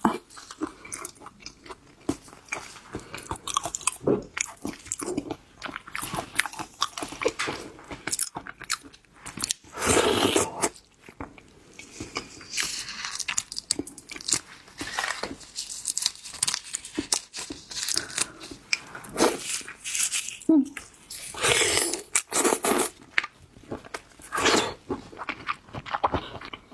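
Close-miked chewing and crunching of shellfish: irregular bites and crackles of shell, with wet mouth sounds between them and a few louder crunches.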